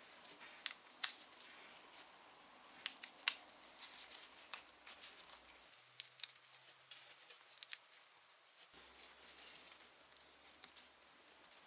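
Small parts of a pressed-steel toy garbage truck clicking and tapping as it is assembled by hand: scattered sharp clicks, the loudest about a second in and again about three seconds in.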